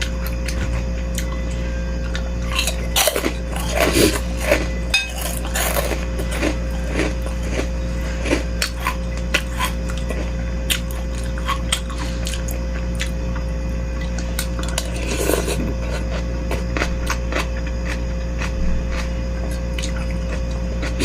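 Eating sounds of beef-rib meatball soup: a spoon clinking against the bowl and chewing, with busier bursts a few seconds in and again about fifteen seconds in. A steady low hum runs underneath.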